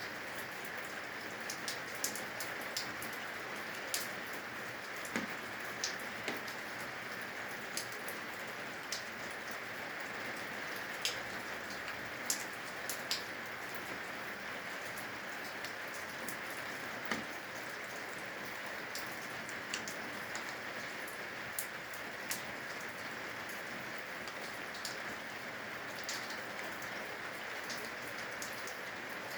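Steady rain falling, with irregular sharp drops striking close by, as rain dripping from the eaves.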